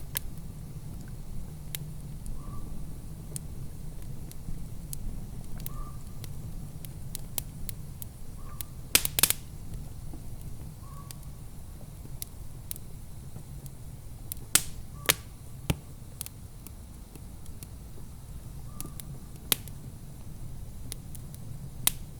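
Wood fire crackling in a fireplace: irregular sharp pops and snaps, a quick cluster about nine seconds in and several louder single pops later, over a steady low rumble.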